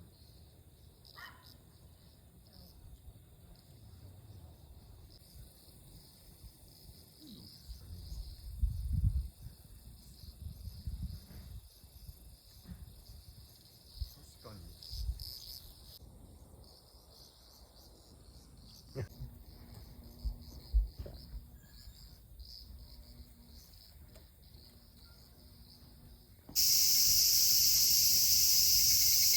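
A steady chorus of insects chirping, with scattered low thumps. About 27 seconds in, the insect sound abruptly becomes much louder.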